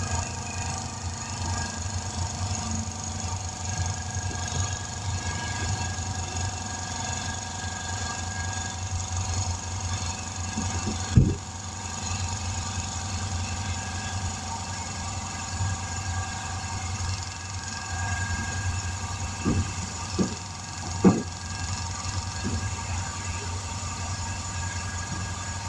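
A small engine or motor running steadily with an even hum, with a few short knocks about 11 seconds in and again around 19 to 21 seconds in.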